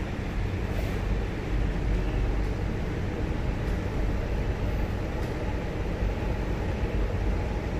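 Cabin noise inside a Chinese-built MTR Tuen Ma Line electric train running on the track: a steady low rumble of wheels and running gear.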